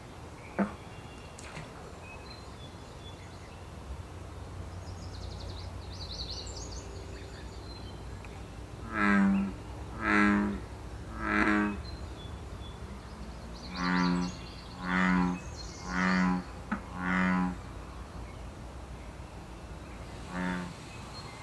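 American bullfrogs calling: deep, lowing calls in a run of three and then a run of four, about one a second, with one fainter call near the end. These are male breeding-season choruses. A few small bird chirps sound faintly above them.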